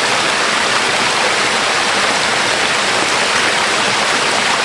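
Waterfall: a loud, steady rush of falling water, close by.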